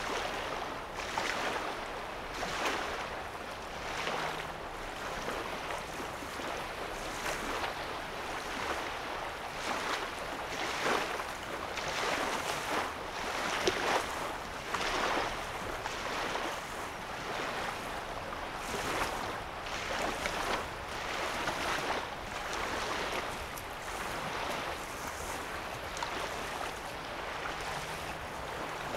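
Small lake wavelets lapping on a sandy shoreline, a soft wash of water every second or two.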